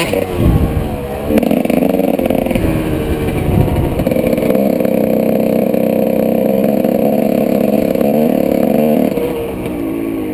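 Single-cylinder two-stroke engine of a 1995 Honda CR125 motocross bike being ridden. Its pitch rises and falls a few times, then holds a steady high note for several seconds, then drops and fades near the end.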